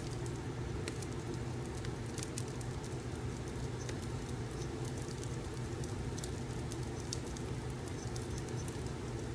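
Fireplace ambience: a steady low rumble of burning logs with irregular sharp crackles and pops.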